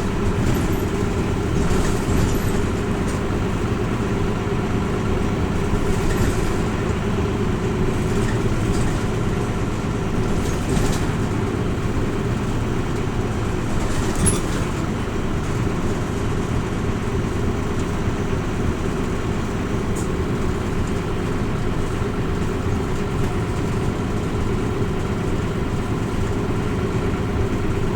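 Inside a Hino Rainbow RJ (P-RJ172BA) route bus on the move: its diesel engine runs steadily over road noise, with a few faint clicks and rattles.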